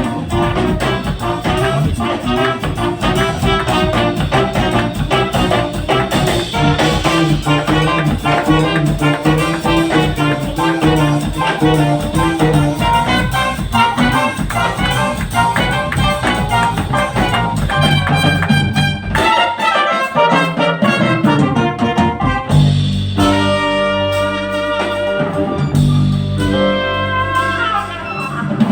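A jazz group with brass, led by a trumpet, plays a busy, fast-moving passage. Near the end the bass drops out briefly, then the band settles into long held chords.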